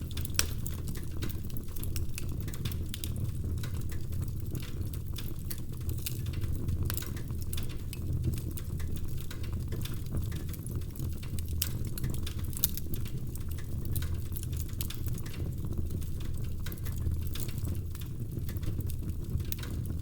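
Wood fire burning in a fireplace: a steady low rumble of flames with frequent, irregular crackles and sharp pops from the burning logs.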